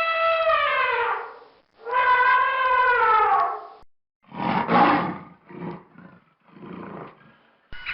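Animal calls: two long, pitched calls that drop in pitch at the end, then three shorter, rough, noisy calls.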